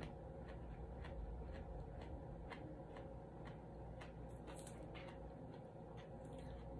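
Faint close-mouthed chewing: soft wet mouth clicks about twice a second over a low steady hum, with a brief rustle of hands handling food about four seconds in.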